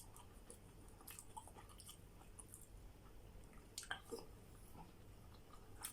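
Faint chewing of pizza, with a few soft mouth clicks and smacks.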